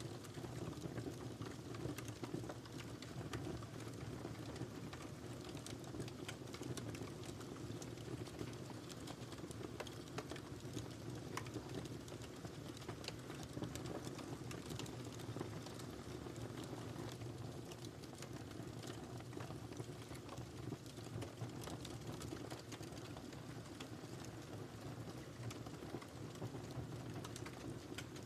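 Wood fire in a fireplace crackling, with frequent irregular small pops and snaps over a steady low rumble of the flames.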